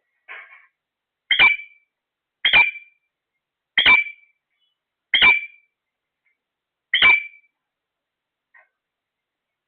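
A parrot giving five loud, short squawks a second or so apart, each with a sharp start and a held shrill tone, after one softer call.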